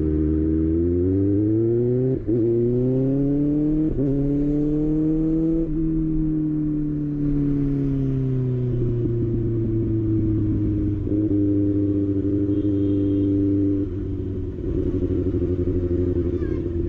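Kawasaki ZX-6R inline-four engine accelerating through the gears. Its pitch climbs and drops sharply at upshifts about two, four and six seconds in, then holds and eases off, with two more shifts later on.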